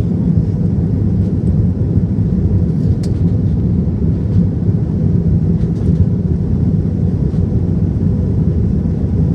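Airbus A320 jet engines and airflow heard from inside the cabin shortly after takeoff: a steady, loud low rumble with no change in pitch.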